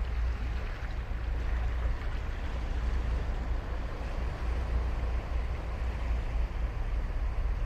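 Ocean surf washing steadily onto a sandy beach, a continuous hiss of breaking waves over a deep low rumble.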